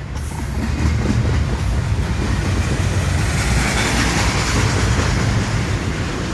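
Long freight train's cars rolling past close by: a steady loud rumble of wheels on the rails with clattering over the track.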